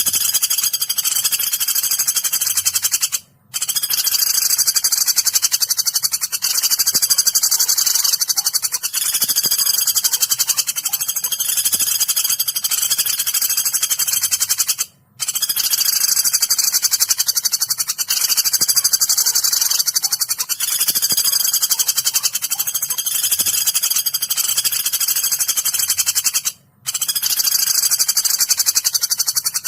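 Pelatuk (woodpecker) bird-training recording: continuous, very high-pitched rapid trilling and chattering calls. The calls break off in three brief gaps about twelve seconds apart.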